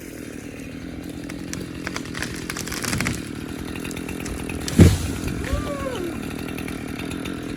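Chainsaw engine running steadily, gradually getting louder, with a sudden loud burst about five seconds in.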